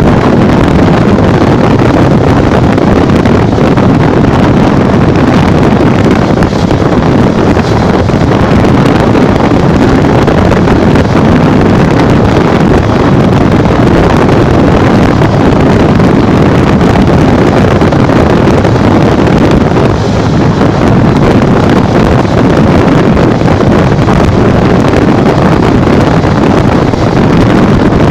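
Steady rush of wind buffeting the microphone on a Honda Bros 150 motorcycle ridden at speed, with the single-cylinder engine running underneath.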